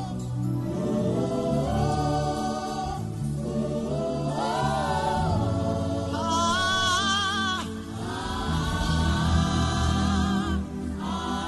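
A man humming a wordless gospel worship melody in long held phrases with vibrato, over a steady low backing.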